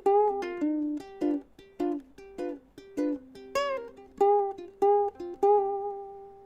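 Ukulele played fingerstyle: a melody of single plucked notes, a few of them sliding in pitch, with the last note left ringing and fading near the end.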